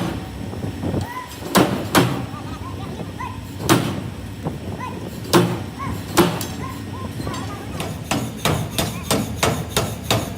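Hammer blows on metal: a few separate strikes, then a quicker run of blows, about three or four a second, over the last couple of seconds.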